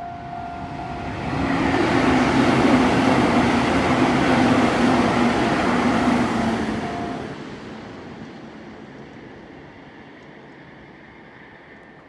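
A Meitetsu train passes over a level crossing: its noise swells about a second in, stays loud until about seven seconds in, then fades away. The crossing's warning bell rings steadily underneath and stops about seven seconds in, as the train clears.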